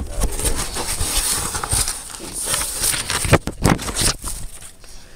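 A mailed package being opened and handled by hand, with irregular rustling and crinkling and a couple of louder knocks about three and a half seconds in.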